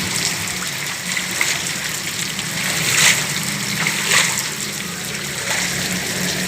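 Heavy rain falling steadily, with pooled rainwater gushing and running off as it drains through a freshly cleared channel. There are two brief louder splashes, about three and four seconds in.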